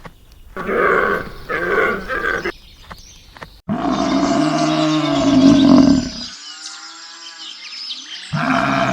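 Animal calls: two short calls, then after an abrupt cut a long, low, loud call, some faint chirps, and another low call near the end.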